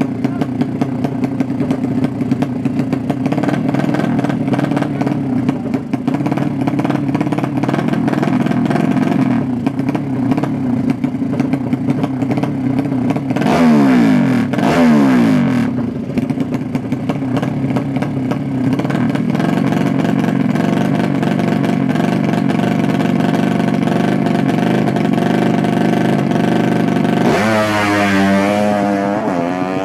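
Drag-racing motorcycle engines running loud and steady. They rev sharply in quick sweeps about halfway through and again near the end.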